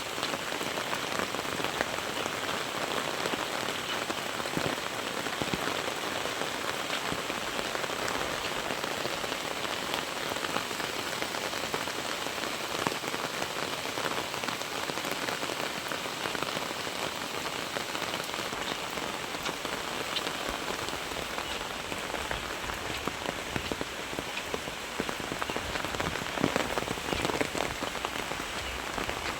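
Very heavy rain falling on surfaces: a steady, dense hiss thick with individual drop hits, with a few louder hits near the end.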